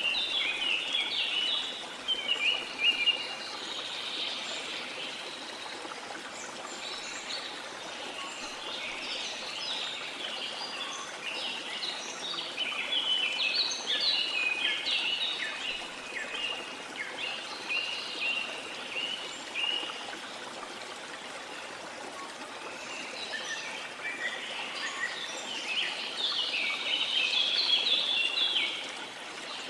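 Small songbirds twittering and chirping in busy clusters over a steady wash of sea water. The chirping thins out for a few seconds after about the twentieth second and picks up strongly again near the end.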